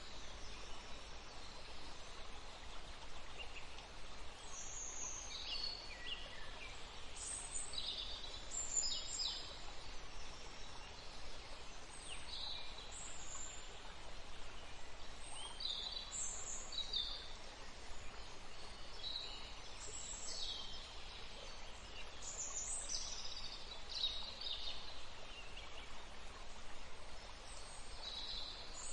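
Steady rush of running water with small birds chirping over it: short, high chirps every second or so.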